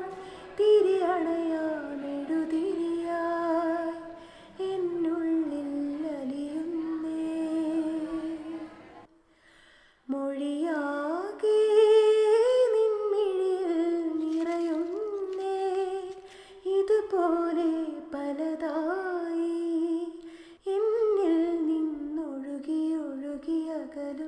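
A woman humming a slow, wordless melody in long phrases with short pauses between them, the longest about nine seconds in.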